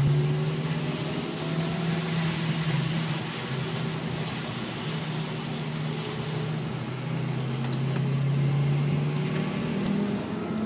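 Mini Cooper S R53's supercharged four-cylinder engine heard from inside the cabin, pulling at steady part throttle with revs climbing near the end. Hiss from the wet track runs under it and eases about two-thirds of the way through.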